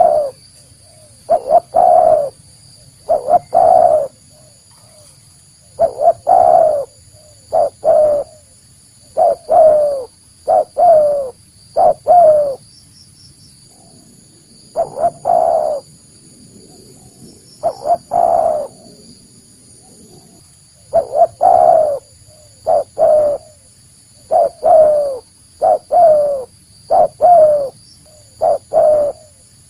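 Spotted dove cooing: bouts of short, down-slurring coos repeated again and again, with pauses of a couple of seconds between the bouts.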